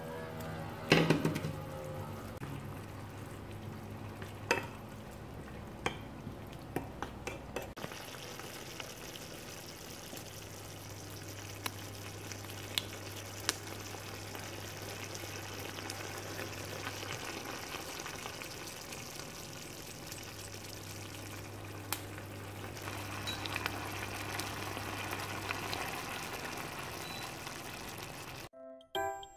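Meat simmering and sizzling in sauce in a nonstick frying pan, a steady frying hiss. A spatula or bowl clacks against the pan now and then, loudest about a second in.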